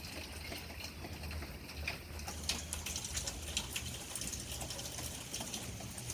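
Rain dripping and pattering in many small, irregular taps, over a low steady rumble of storm wind.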